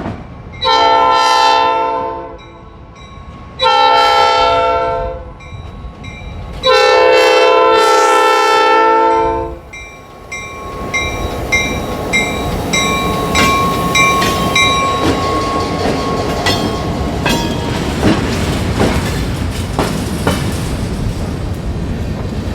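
Diesel locomotive horn sounding three blasts, a short one between two longer ones, followed by a bell ringing steadily while the train rolls by with wheels clicking and cars clanking over the rails.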